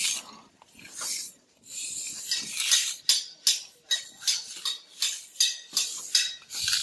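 Steel mason's trowel scraping and working wet mortar in a rapid series of short scrapes and clinks.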